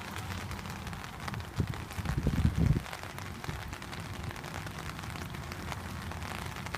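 Steady rain falling on pavement and standing water, an even hiss, with a few short low rumbles about two to three seconds in.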